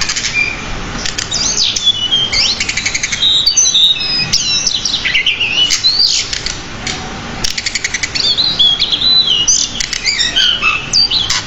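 Pied bushchat (decu) in full song: a continuous, varied run of whistled rising and falling notes broken by rapid chattering trills, packed with borrowed phrases.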